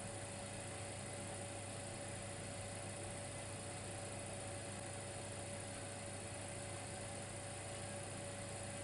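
Dimplex electric fireplace running with a steady, unchanging hum and hiss, including a faint high steady tone.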